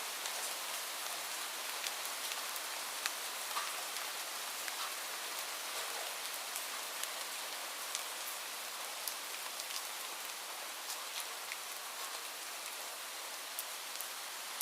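Steady rain: a dense, even hiss with many scattered sharp ticks of individual drops striking nearby.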